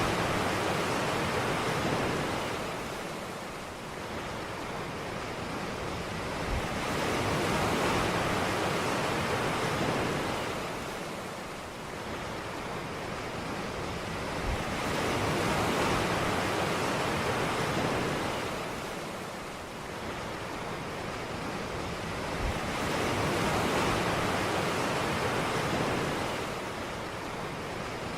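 Ocean waves breaking and washing on a beach, the surf swelling and fading in slow cycles about eight seconds apart.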